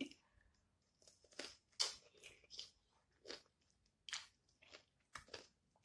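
Close-mouthed chewing of a crunchy cucumber slice dipped in sauce: a dozen or so short, crisp, faint crunches at an uneven pace.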